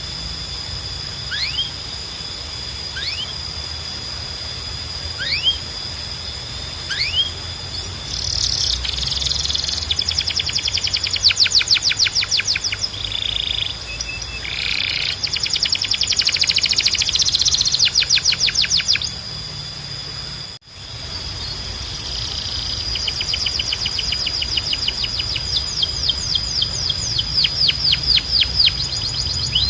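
Canary singing. First come single rising chirps about every second and a half, then long rapid trills and rolling song. The song cuts off suddenly about two-thirds of the way through, then resumes with fast trills that quicken toward the end.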